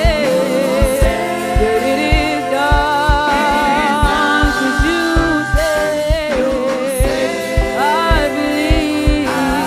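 Gospel worship song: voices singing with vibrato over a band with a steady drum beat.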